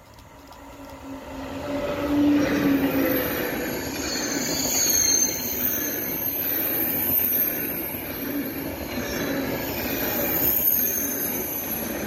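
A TGV Atlantique high-speed electric trainset passes close by. The sound swells over the first two seconds as the train arrives, then holds as a steady rush of wheels and bogies on the rails, with high whining tones that slide down in pitch, until the rear power car goes by at the end.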